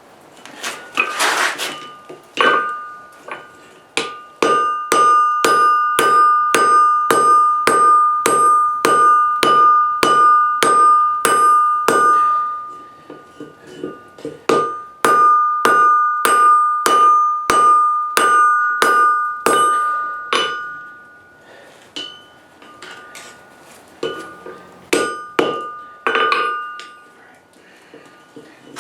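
Hand hammer striking hot steel on an anvil, the anvil ringing with a clear steady tone after each blow. The blows come about two a second in two long runs with a short pause between them, then slow to a few scattered strikes near the end.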